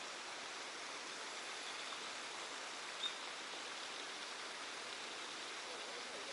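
Steady, even rushing of water outdoors, with one short faint click about three seconds in.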